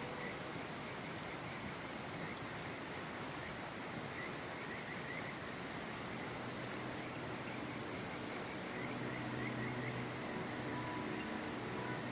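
Insects chirping at dusk, a continuous high trill with runs of short chirps, over the steady rush of a river.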